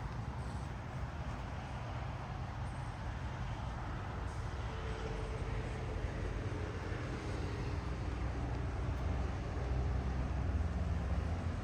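Steady low rumble of road traffic, with a heavier vehicle's engine growing louder near the end.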